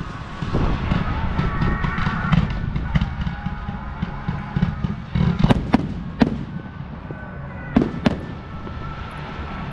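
Fireworks display: a steady crackle of small bursts, then a run of sharp, loud shell bangs about halfway through and two more near the end.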